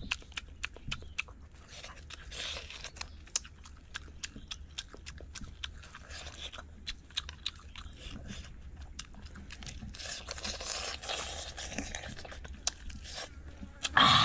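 Close-up chewing of grilled tongue dipped in chili sauce: wet lip smacks and many small mouth clicks, with a brief loud vocal sound near the end.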